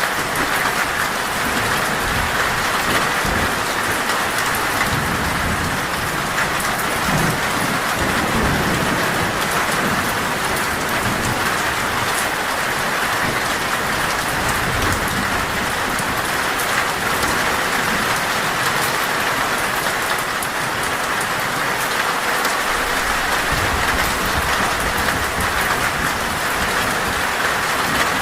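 Heavy rain drumming steadily on a metal roof, with low rumbles of thunder.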